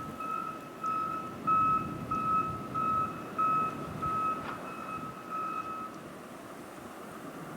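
A vehicle's reversing alarm beeping at a steady pitch, about two beeps a second, stopping about six seconds in, over a low rumble.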